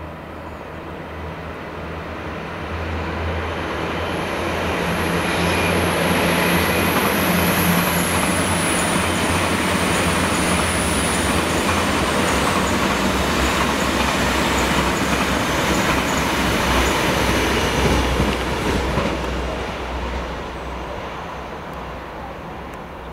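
A train passing through a station: the rumble of the wheels on the rails builds over the first few seconds, holds for about twelve seconds, then dies away. A thin high squeal slides slowly down in pitch during the first half.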